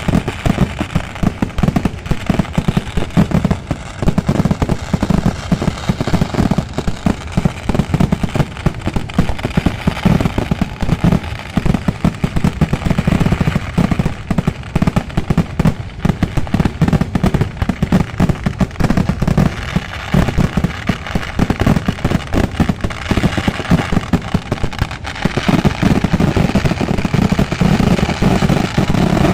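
Kerala-style fireworks going off in a rapid, unbroken run of firecracker bangs, one on top of the next.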